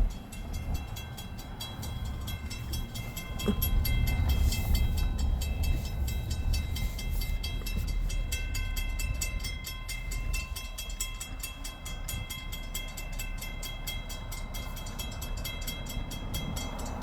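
Electric railroad crossing bells ringing continuously in a fast, even repeated ding, with a low rumble underneath. The crossing is sounding with no train on the tracks: a malfunctioning crossing signal.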